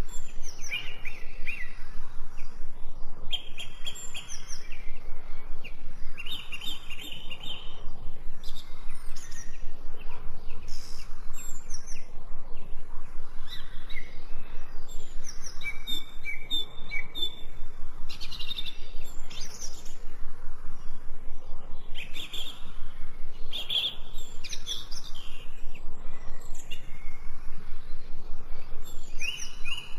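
Several wild birds chirping and singing, with short high chirps and trills overlapping one another, over a fast, even pulsing sound.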